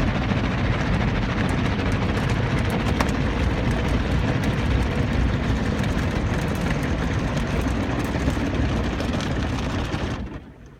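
Car wash running: a loud, steady rush of noise with scattered sharp ticks, dropping away about ten seconds in.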